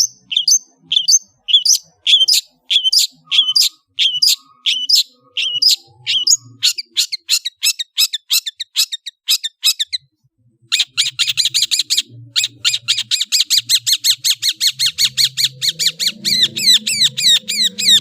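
Long-tailed shrike (cendet) singing: sharp, harsh high calls repeated about twice a second, speeding into a fast series, then stopping around ten seconds in. After a short pause it breaks into a very fast trill of short downward-sliding notes until the end.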